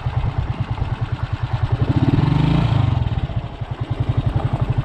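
A motorcycle engine running with a steady low chug, swelling louder for about a second around two seconds in.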